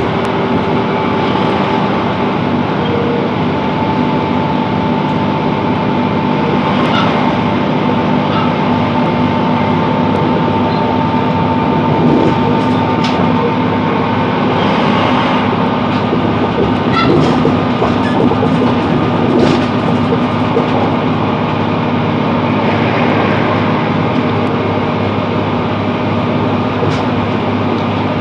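Class 165 Networker Turbo diesel multiple unit running between stations: a steady drone from its underfloor diesel engine over a continuous wheel-on-rail rumble, with a few faint clicks.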